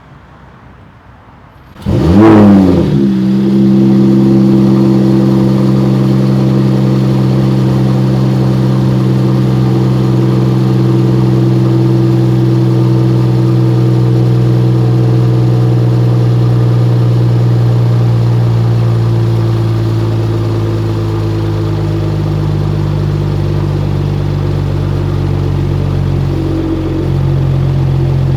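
Mercedes-AMG E53's 3.0-litre turbocharged inline-six starting about two seconds in: a quick rev flare that rises and falls back, then a steady idle. The idle note eases slightly about twenty seconds in and picks up again near the end.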